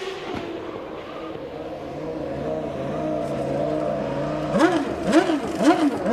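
Formula One car engines running with a steady, slowly rising note. About four and a half seconds in they start revving hard in quick repeated rises and falls, about two a second.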